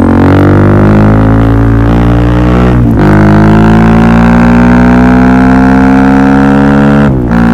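Suzuki DR-Z400SM single-cylinder four-stroke engine through a Yoshimura full exhaust system, accelerating hard. The pitch climbs steadily and drops sharply twice, about 3 seconds in and again near the end, as the rider shifts up through the gears.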